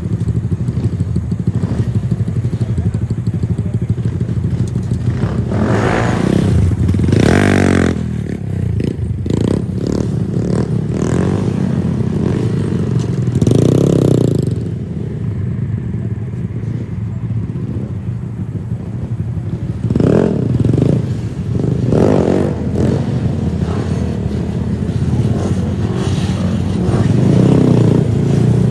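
Motorbike engines running steadily, revved up briefly several times.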